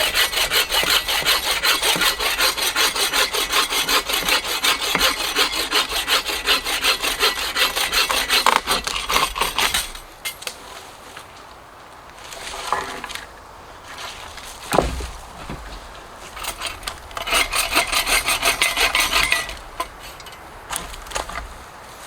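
Hand saw cutting wood in rapid, even back-and-forth strokes for about ten seconds, then a pause with a sharp knock, then a shorter second bout of sawing near the end.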